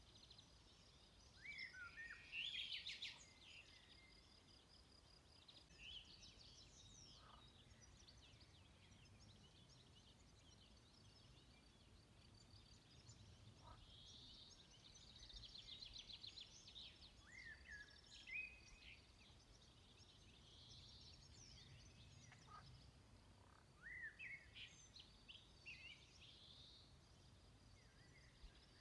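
Faint birdsong: several birds chirping and trilling on and off, over a soft low outdoor background.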